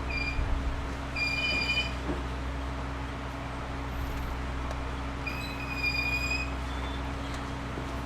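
Cabin sound of a JR Series 211-5000 electric train: a steady low hum from the car's equipment. Two short, high ringing tones sound over it, one about a second in and a longer one about five seconds in.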